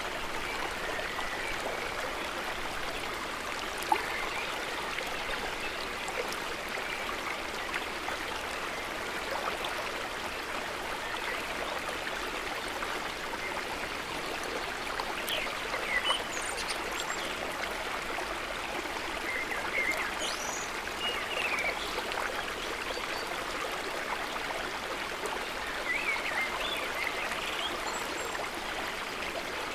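River water running steadily, a continuous rushing and trickling. A few brief high chirps come through in the second half, and there is one sharp click about four seconds in.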